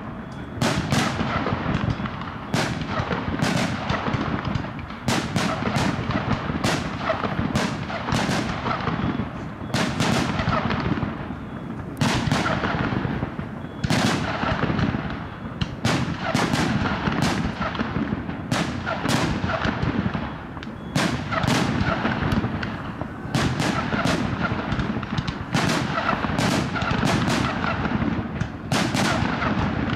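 Aerial fireworks display: shells bursting in quick succession, about one or two bangs a second, with a continuous noisy rumble between the bangs.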